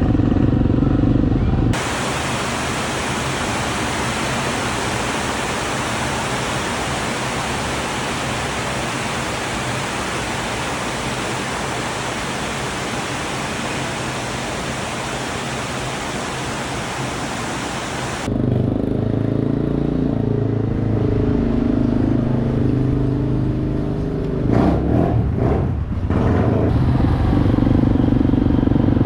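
Motorbike engine running under way. A little under two seconds in it cuts abruptly to a steady, even hiss with no engine note for about sixteen seconds, then the engine sound returns just as suddenly, with some rattling near the end.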